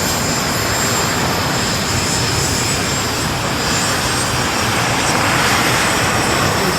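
BAE Hawk jets' Rolls-Royce Adour turbofan engines: a steady rushing roar with a faint, thin high whine over it.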